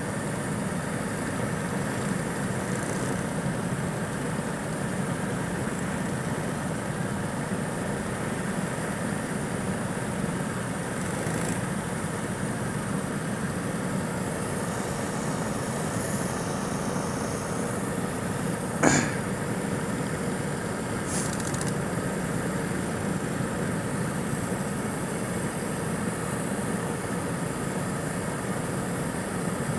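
Go-kart engine running steadily with an even drone. A single sharp knock about two-thirds of the way through.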